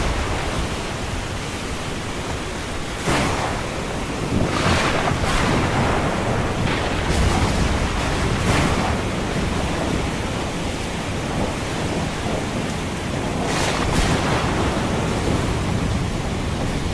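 Ocean surf washing steadily over a low rumble, with several waves breaking in short surges, two close together about a third of the way in and a pair near the end.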